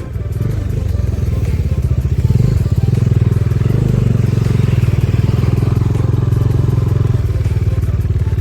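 Motorcycle engine running under way, a fast, even beat of firing pulses. It gets louder about two seconds in and eases slightly near the end.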